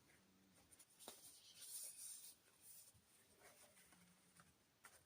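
Faint rustling of paper pages being handled and turned in a handmade journal, with a soft tap about a second in; otherwise near silence.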